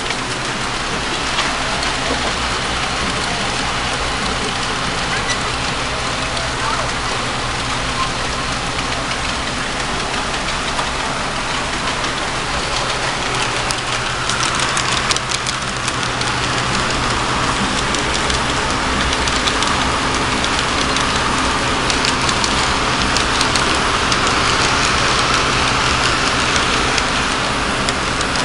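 Model train running along its track: a steady rolling rattle over a low motor hum, with a few clicks about halfway through and a slight rise in level after that.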